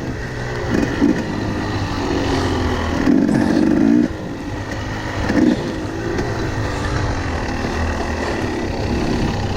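Enduro motorbike engine running with repeated bursts of revving, the pitch rising and falling over a steady low rumble.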